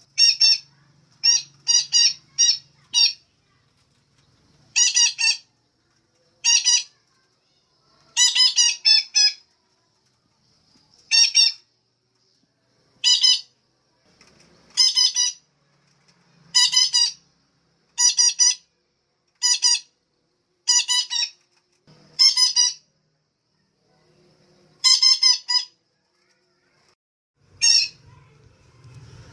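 Female betet (red-breasted parakeet) giving short, harsh squawking calls, singly or in quick runs of two to five, about every one and a half to two seconds with short silences between.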